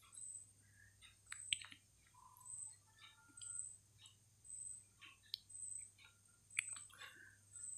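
Faint, scattered bird chirps in the background, with a faint high pip repeating about once a second over a low steady hum.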